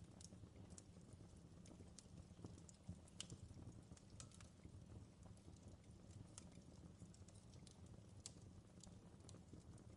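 Campfire crackling: irregular sharp pops and snaps from burning wood, several a second, over a low steady rumble of the flames.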